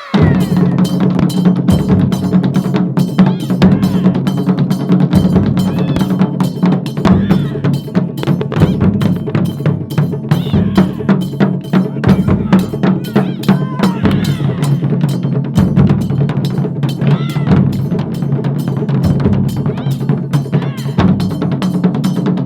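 Ensemble taiko drumming at a fast, steady beat, with a metal bell or hand cymbals clicking along with the strikes. It comes in suddenly at full volume.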